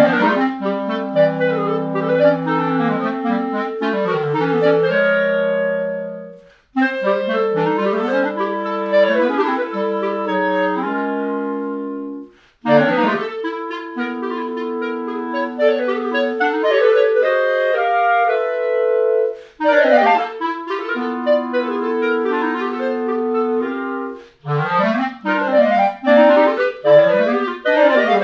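Clarinet playing quick, overlapping runs of notes in phrases of a contemporary piece, with short breaks between phrases about six and twelve seconds in.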